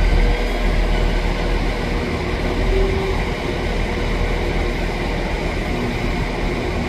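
A train running: a steady noise heavy in the low end, with a few faint steady tones.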